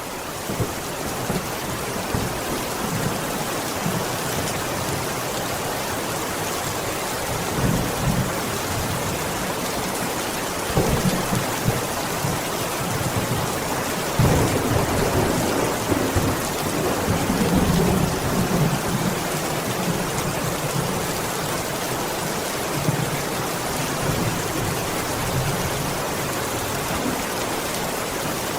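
Steady rain, an even hiss that rises over the first couple of seconds and then holds. Low rumbles swell up several times, strongest through the middle.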